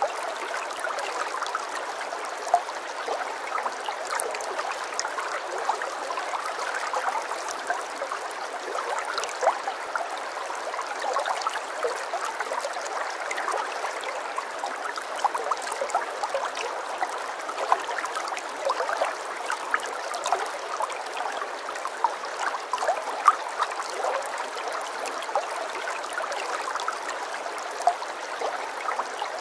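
Running water trickling and gurgling steadily like a small stream, with many small splashes scattered through it.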